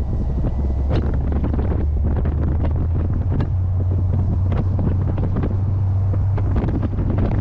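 Heavy wind buffeting on the microphone over the low, steady drone of a C3 Corvette's 350 small-block V8 while driving.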